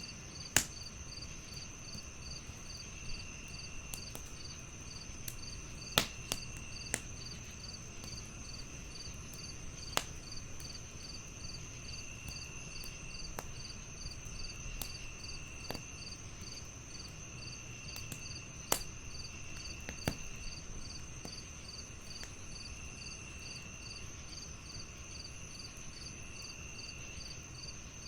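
Crickets chirping in a steady, even rhythm over a constant high insect trill, with another insect's buzz coming and going every second or two. A wood fire crackles under it, with a low steady rumble and a sharp pop every few seconds.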